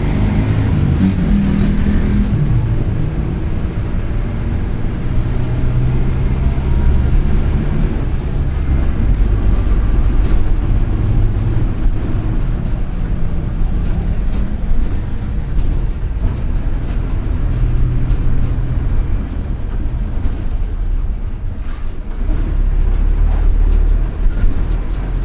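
Mercedes-Benz OF-1722M bus diesel engine running under way, its pitch rising and falling several times, with a turbocharger whistle.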